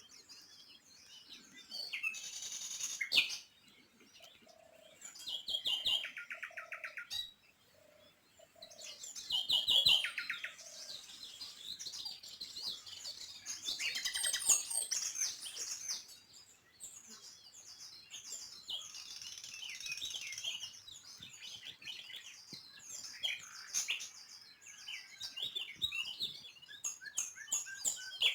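Several small birds chirping and singing, their calls overlapping, with rapid trills now and then and brief lulls between bursts.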